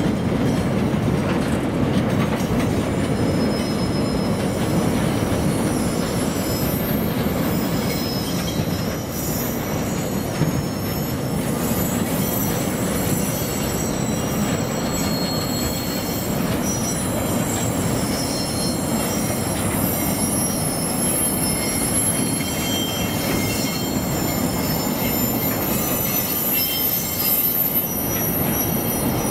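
A long string of narrow-gauge gypsum hopper wagons rolling steadily past, with a constant rumble of wheels on rail and thin, high-pitched wheel squeals coming and going over it.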